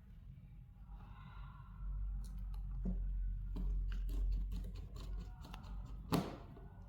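A run of small sharp clicks and light taps from handling phone parts and tools during a phone screen repair, with a short scrape about a second in and a louder tap near the end, over a low steady hum.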